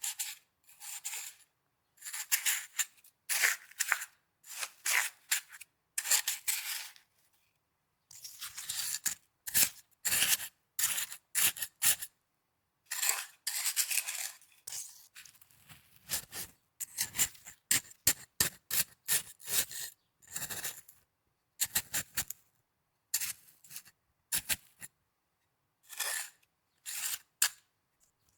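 Snow being handled and scraped in short, irregular, crisp crunching strokes, with complete silence between them.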